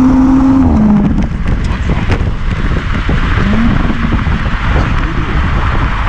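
Audi S4 Avant V6 engine holding a steady note, then dropping in pitch and fading about a second in. After that, mostly road and wind rush, with a brief rise in the engine note midway.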